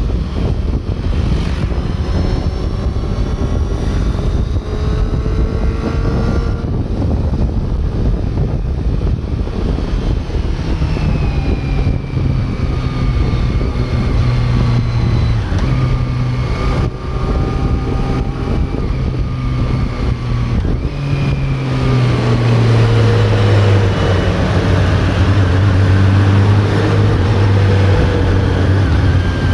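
Honda CB400 Super Four's inline-four engine running, its pitch rising and falling in steps. It gets louder over the last several seconds.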